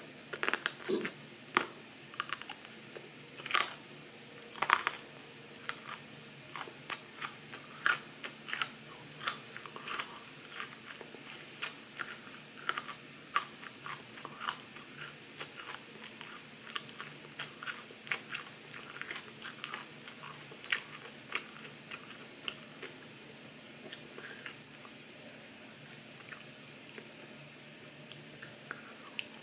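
A person biting and chewing raw broccoli with crisp crunches. The loudest crunches come in the first few seconds, then steadier chewing crunches follow at roughly two a second.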